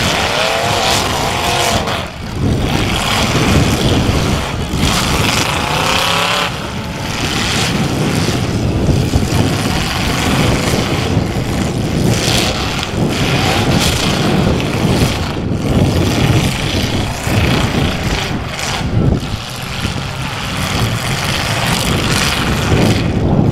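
Demolition derby cars' engines running and revving hard, loud and continuous, with the pitch of the revving climbing and falling near the start and again about five to six seconds in.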